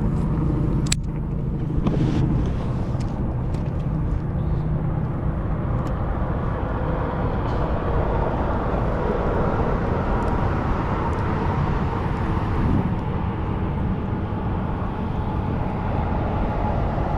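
Steady low outdoor rumble with a single sharp click about a second in and a few faint ticks.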